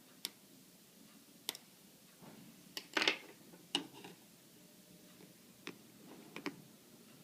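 Small sharp clicks and taps of hand tools and iPhone parts being handled during a battery or back-cover repair, scattered irregularly, with a short scraping cluster about three seconds in.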